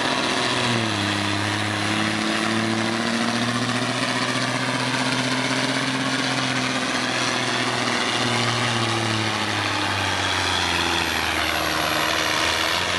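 Freightliner semi truck's diesel engine running hard under full load as it pulls the sled, its pitch wavering slowly up and down, with a steady high whine above it. The sound drops off sharply at the very end.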